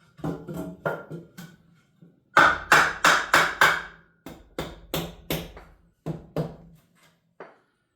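Hammer striking in bursts, a few blows at a time, with the loudest run of about five quick blows a few seconds in and a last lighter blow near the end.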